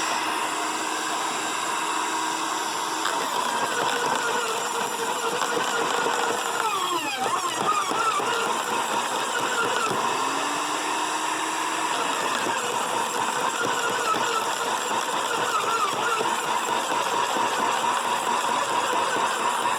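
Sun Joe 15-amp electric wood chipper running and chewing through green limbs and brush. Its motor pitch sags under load and winds back up, once around seven seconds in and again around ten seconds in.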